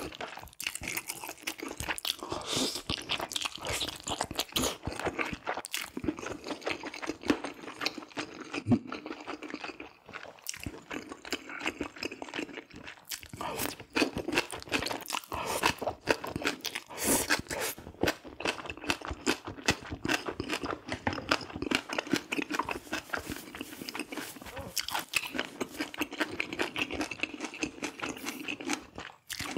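A person chewing and eating close to the microphone: a dense, continuous run of crunching and mouth clicks.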